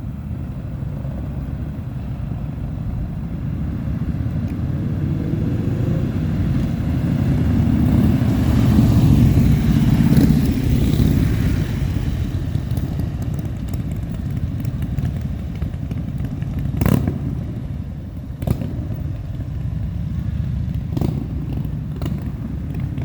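Motorcycle engines rumbling, swelling louder to a peak about nine to eleven seconds in and then easing back. A few sharp knocks or clicks sound in the second half.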